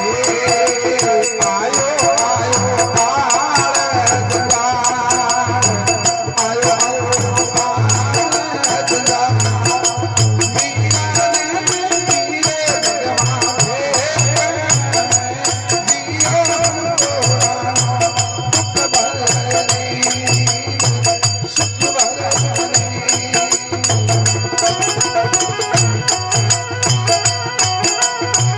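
Instrumental interlude of Rajasthani folk devotional music: a wavering melody played over a steady hand-drum beat with jingling percussion keeping time.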